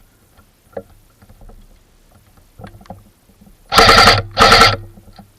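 Airsoft electric gun firing two short full-auto bursts, very loud and close, about four seconds in; light ticks and crackles of movement through leaf litter before them.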